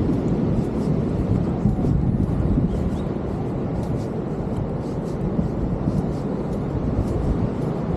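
Steady low rumbling roar of ocean surf and wind on the microphone, with faint footsteps on sand at walking pace, about two a second.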